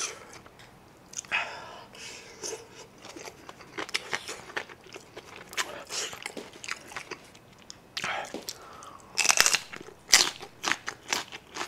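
Close-up eating sounds: a man chewing a spoonful of kimchi fried rice with wet mouth clicks. Near the end come loud crisp crunches as he bites into a raw green chili pepper, with short breathy rushes of air just before.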